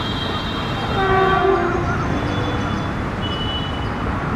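Electric locomotive's horn sounding briefly about a second in, over the steady rumble of the train running past.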